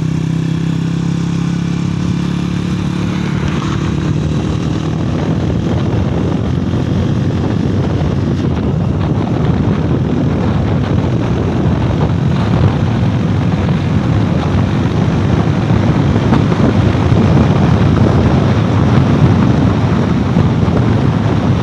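Honda EX5 FI (Dream 110) motorcycle's single-cylinder four-stroke engine breathing through an aftermarket Thailand-style 'standard cutting' exhaust. It is ridden on the road: an even engine note for the first few seconds, then a rougher running sound that grows louder as it gets under way.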